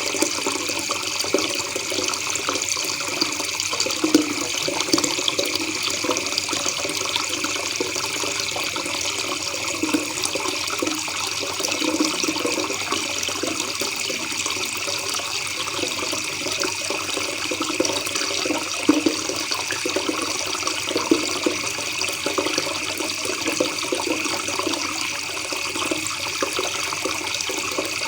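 River water babbling steadily, an unbroken rush and trickle.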